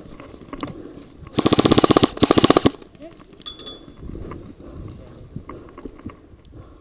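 Airsoft rifle firing two quick full-auto bursts, each about half a second long, with a brief pause between them.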